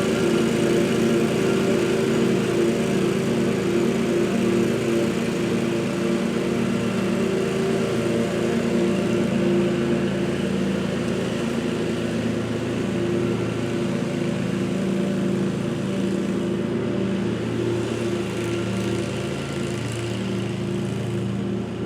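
Gasoline engine of lawn-care equipment running steadily at a constant speed, a continuous drone that grows slightly fainter over the second half.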